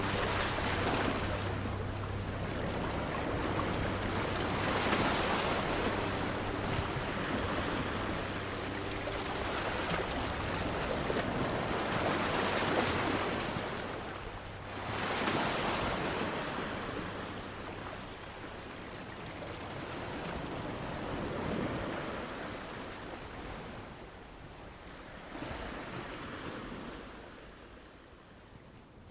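Ocean surf breaking on a beach, the wash swelling and falling back every few seconds, dying away over the last few seconds.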